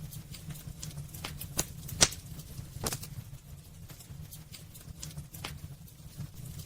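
Wood fire in a fireplace crackling: irregular sharp pops and snaps over a low steady rumble of the flames. The loudest pop comes about two seconds in.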